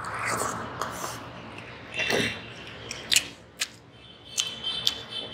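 Close-miked chewing of a mouthful of khichri and raw greens, with wet mouth sounds and a run of sharp crunches a few seconds in.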